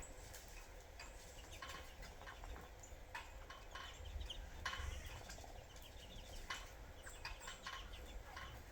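Birds feeding on sunflower seeds: irregular short clicks of pecking and seed handling, mixed with a few brief high chirps, over a low rumble.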